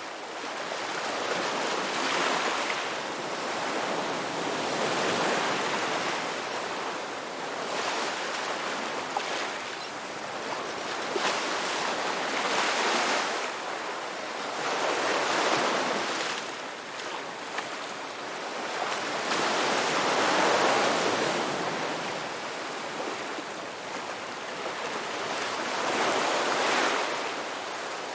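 Sea waves breaking and washing in, a rushing noise that swells and fades every three to five seconds.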